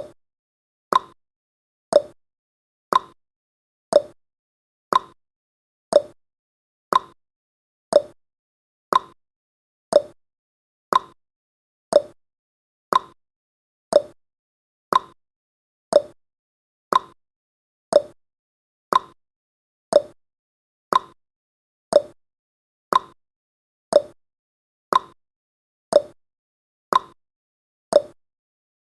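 Clock-style ticking sound effect of a countdown timer: one short, sharp tick every second, alternating between a higher and a lower tick like a tick-tock.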